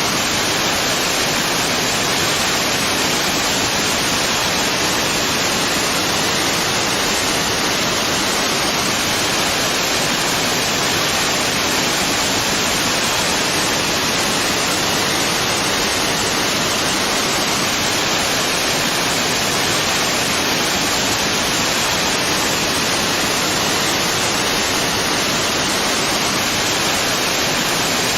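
Waterfall: a steady, unbroken rush of falling water, with a hissy, even sound that holds at one level.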